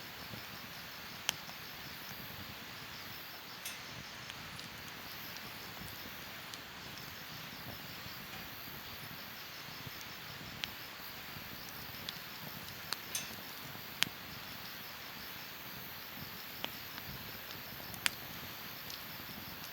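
Wood campfire burning: irregular sharp crackles and pops of the burning wood over a steady soft hiss.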